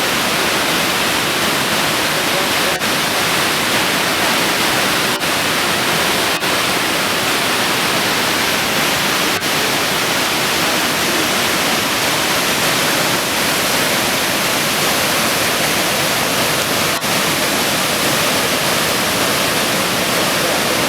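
Triple Falls, a large three-tiered waterfall, making a loud, steady rush of falling water, broken by a few split-second dropouts in the sound.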